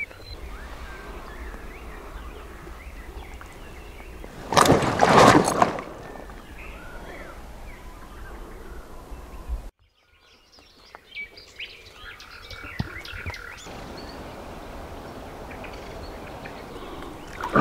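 Songbirds chirping and calling over a low steady rumble of outdoor ambience. About four and a half seconds in, a loud rushing noise bursts in for about a second, and near ten seconds the sound cuts out briefly before birdsong resumes.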